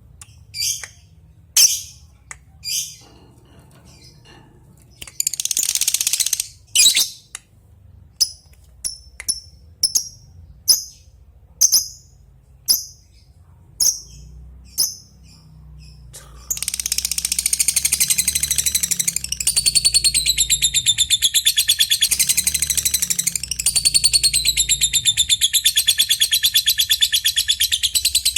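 Lovebird giving short, sharp single chirps about once a second, then, a little over halfway through, breaking into a long unbroken rapid chattering trill (the 'ngekek'), a call aimed at a rival.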